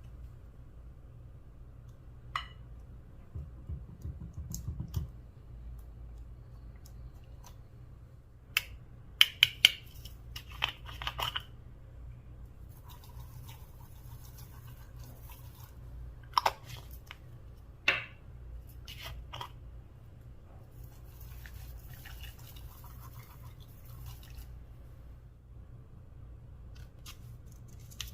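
Slime being handled and mixed by hand, heard close up: scattered sharp sticky clicks and pops, bunched together about a third of the way in and again past the middle, with stretches of soft crackling between them.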